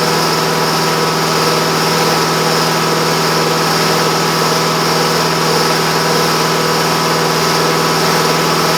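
A motor-driven machine running steadily, a continuous hum with a fast, even rattle in it.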